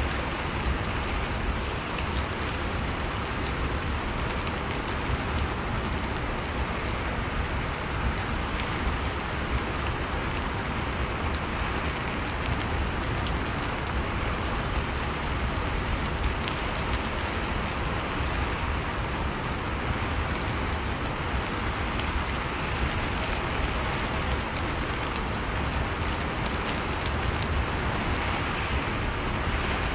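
Steady rain falling on a surface, an even patter with no breaks.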